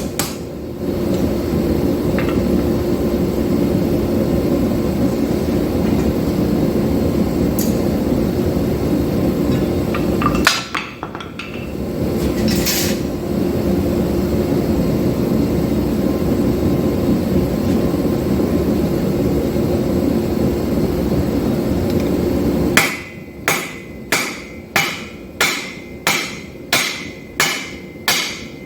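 A steady low roar with a hum, dropping out briefly about ten seconds in. Near the end, hand-hammer blows on steel at the anvil, about two a second, each with a bright ring.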